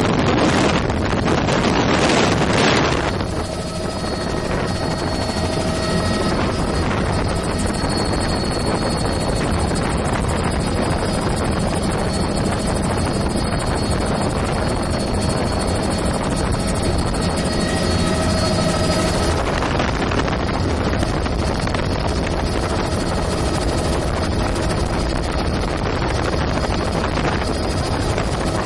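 Helicopter in flight, its engine and rotors making a steady drone with a faint high whine. A louder rushing noise covers the first three seconds or so.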